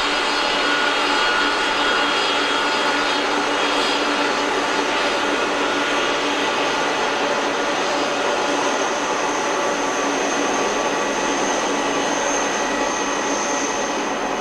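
Jet engines of a Boeing 747-400 freighter running, a steady loud rush with a high whine that grows stronger through the second half.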